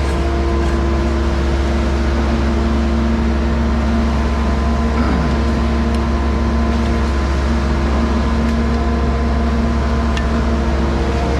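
Heavy diesel equipment running steadily at a concrete pour, a constant low engine drone with steady hum tones over it. A short falling tone cuts through about five seconds in.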